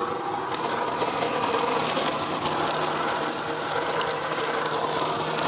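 Ozito 36V cordless vacuum blower running steadily in vacuum mode, its motor and fan sucking up garden debris, with a few small ticks and a faint low hum coming in about two seconds in.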